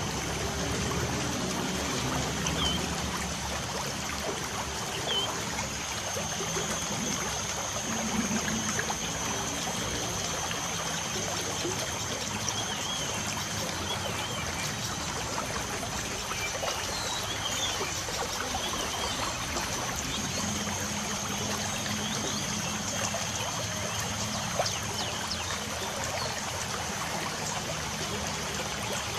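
Light rain falling with a steady trickle of running water, and faint bird chirps here and there.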